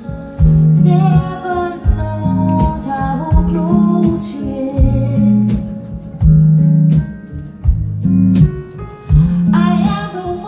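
Band music with a plucked guitar and a repeating bass line, and a voice singing at times.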